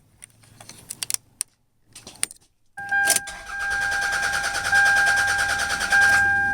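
Toyota Camry engine being cranked over by the starter: a steady starter whine with an even, fast pulsing, starting about halfway in after a few light key clicks and jingles.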